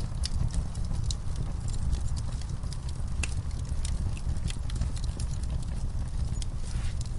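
A wood fire in a fireplace, crackling and popping irregularly over a steady low rumble of burning.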